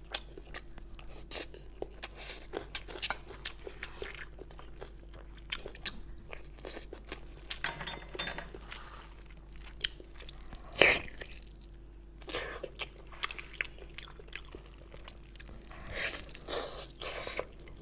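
Close-miked chewing and mouth sounds of someone eating rice and braised pork hock: many small, irregular sharp clicks, one louder than the rest about eleven seconds in. Near the end she bites into the soft, sticky skin of the hock held in her hands.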